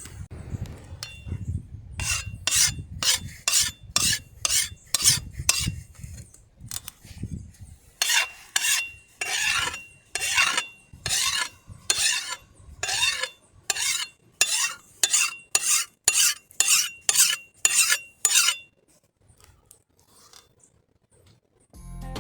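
A file rasping along a steel machete blade in regular strokes, about two a second, with a faint metallic ring in each stroke. There is a short pause partway through, and the strokes stop a few seconds before the end.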